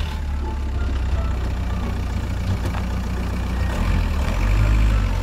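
Silver Audi A3's engine idling close by, a steady low rumble that swells slightly near the end.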